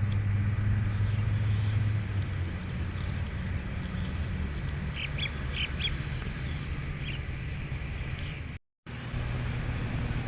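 Ducks quacking, with a handful of short calls about five seconds in, over a steady low hum. The sound drops out briefly near the end.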